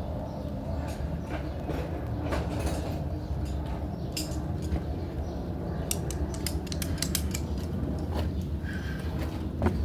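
Hand tools clicking and clinking on metal as a spark plug is worked out of a small mower engine, with sharp clicks bunched together about six to eight seconds in. A steady low hum runs underneath.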